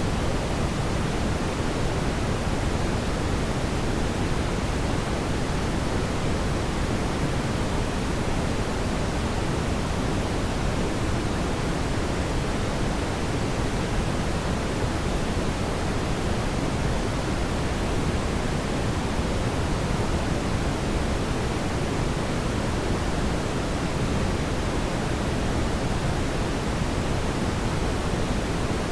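Steady, even rushing noise, heavier in the low end, with no audible crackles or pops and no change over the whole stretch.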